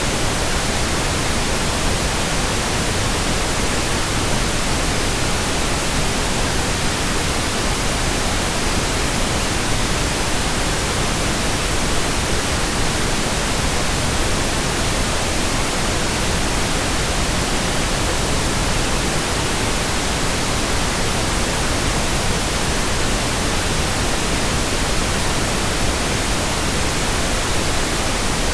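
Steady white noise: an even, unchanging hiss across the whole range from low to high.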